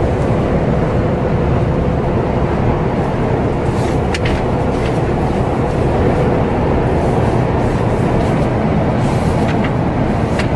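Steady engine and road noise of a vehicle driving along, with a faint steady hum and a few light clicks.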